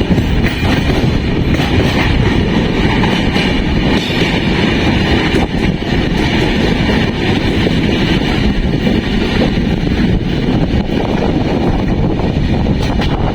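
Dhule Express passenger train running on the line: a steady, loud rumble of wheels on rails with a few faint clicks.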